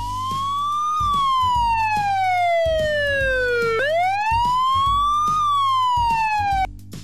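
Fire truck siren wailing. Its pitch rises and falls twice, the first fall long and slow, and it stops abruptly shortly before the end.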